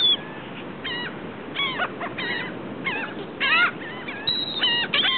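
A flock of gulls calling, with short squawking calls about every half second, several overlapping near the end, over a steady background hiss.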